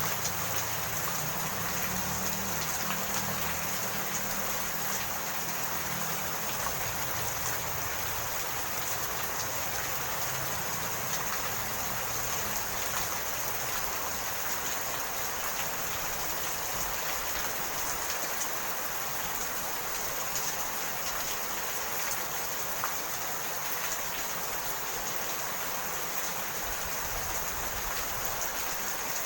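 Steady rain falling: an even hiss with a few faint drop ticks. A low rumble fades out over the first few seconds.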